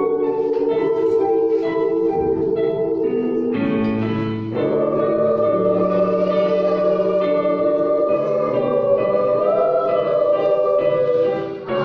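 Children's choir singing long held chords, moving to a new, fuller chord about four seconds in.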